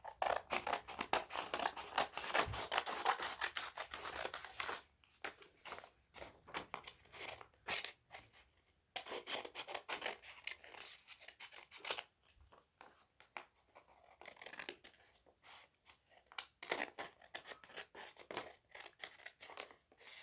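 Scissors cutting a sheet of paper along a folded line: a quick run of snips for the first few seconds, then scattered snips and paper handling.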